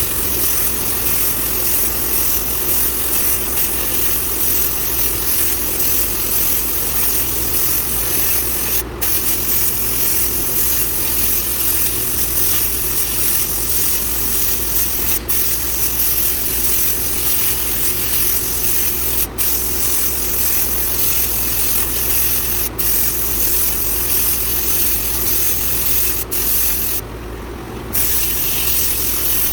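Abrasive blast cabinet blasting winch parts: a loud, steady hiss of air and media, cut off briefly several times and once for about a second near the end as the blast trigger is let off.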